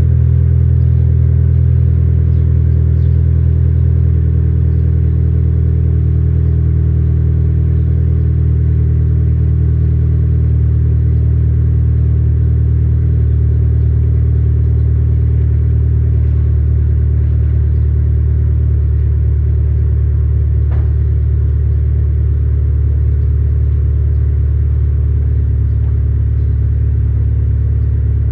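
Honda Integra DC5 Type R's K20 four-cylinder engine idling steadily after a cold start, heard as a deep, even exhaust note through its Fujitsubo aftermarket exhaust.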